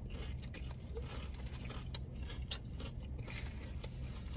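A person chewing a mouthful of sandwich topped with kettle chips, with small crunching clicks, over a steady low hum.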